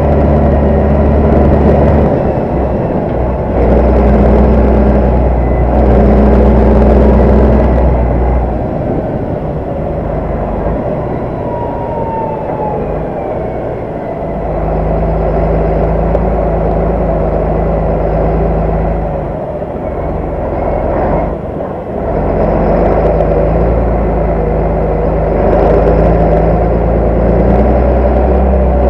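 Large farm tractor's diesel engine running steadily. Its load and revs sag and swell a few times.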